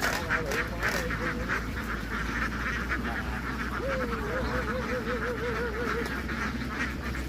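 A large flock of domestic ducks quacking continuously, many birds calling over one another in a dense chatter. A low steady hum runs underneath, and a warbling tone wavers up and down for about two seconds in the middle.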